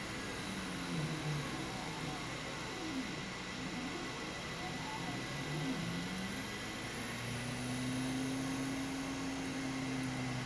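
Stepper motors of a home-built 3D printer moving the print head: a low whine whose pitch glides up and down as the moves change speed, with a long steady tone in the second half. Underneath is a steady hiss.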